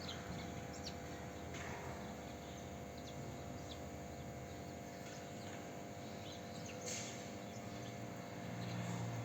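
Small birds chirping faintly now and then in short, high notes, over a steady background hum.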